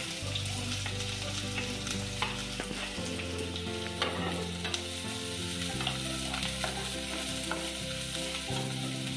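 Chopped onions and green chillies sizzling in hot oil in a non-stick frying pan, with a wooden spatula clicking and scraping against the pan as they are stirred.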